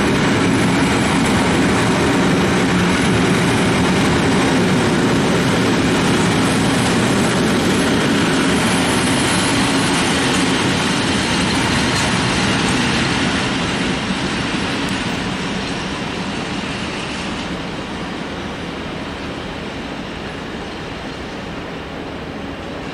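Freight train of covered sliding-wall wagons rolling past on the rails with a steady, loud rumble of wheels and wagons. About halfway through, the last wagon passes and the sound fades as the train draws away.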